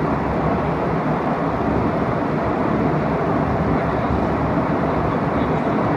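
Steady cabin noise inside an airliner: an even, unbroken rumble of engines and airflow, heaviest in the low and middle range.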